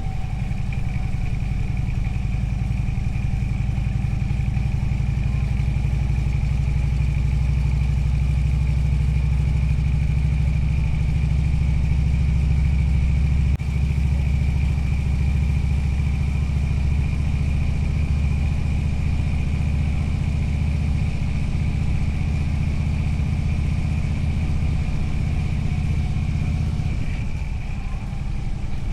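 Motorcycle engine running steadily under way, with a brief dip about halfway through and easing off near the end.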